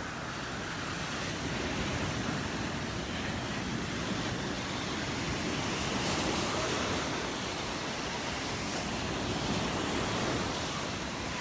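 Gulf of Mexico surf washing onto the beach in a steady rush that swells and eases every few seconds, with wind buffeting the microphone.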